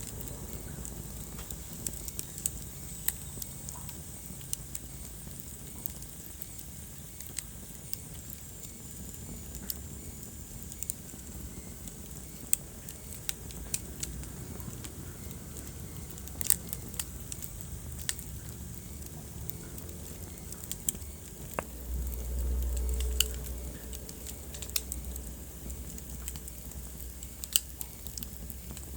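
Wood fire in a fireplace crackling, with sharp pops scattered irregularly over a steady low rumble of flames. A faint high-pitched whistle sounds for several seconds in the first third. A louder low rumble swells briefly a little past the middle.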